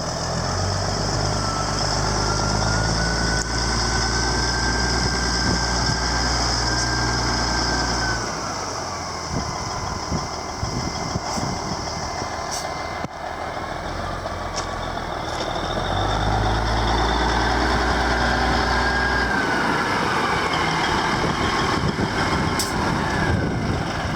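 Ford LTL 9000 truck tractor's diesel engine running, brought up twice with a rising turbo whistle and a stronger, steadier drone, each time dropping back to a rougher, lower idle.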